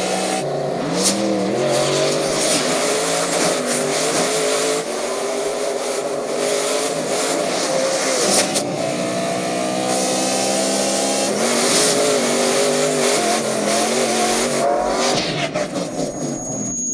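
A car engine revving hard while driven, its pitch climbing and stepping back down through gear changes over a steady rush of tyre and road noise.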